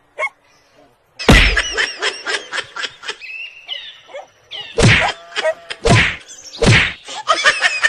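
Four heavy whacks, the first about a second in and the others near the end, with rapid clicking and a few short chirps between them.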